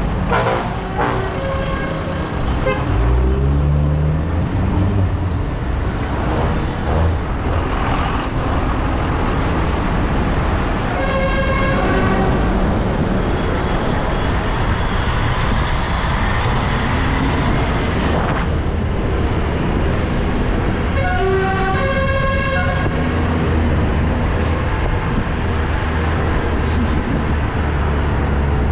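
Tractor engines running with a steady low rumble; one engine's pitch rises a few seconds in. A horn toots briefly about 11 seconds in, then again for about two seconds around 21 seconds.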